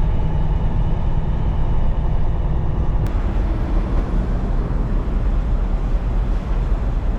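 Truck running with a steady, dense low rumble of engine and road noise, with a single sharp click about three seconds in.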